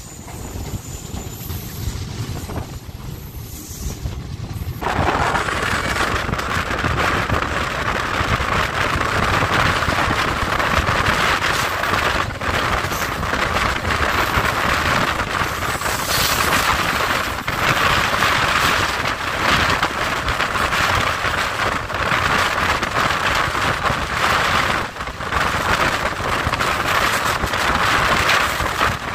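A passenger train running at speed, its wheels and rails heard from an open coach door. About five seconds in the noise suddenly gets much louder and denser as the train runs close alongside a line of covered goods wagons on the next track.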